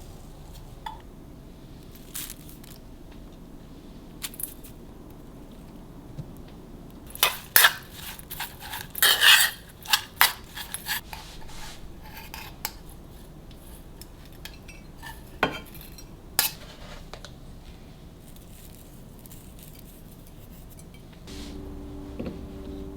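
Dishes and cutlery clinking and knocking in a home kitchen, with scattered single clinks and a busier run of clattering in the middle. A low steady hum starts near the end.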